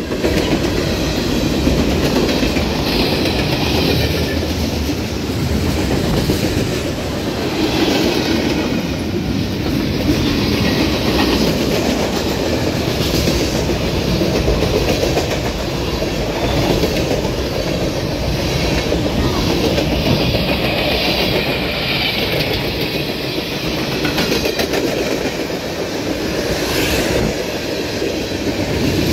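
Freight train cars, covered hoppers and then tank cars, rolling past close by: a steady rumble of steel wheels on rail, with a clickety-clack repeating every second or two as the wheel sets pass.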